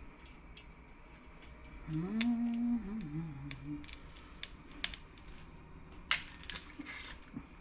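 Light clicks and taps of kitchen utensils and containers being handled, scattered through and busier near the end, with a short low murmur of a voice about two seconds in.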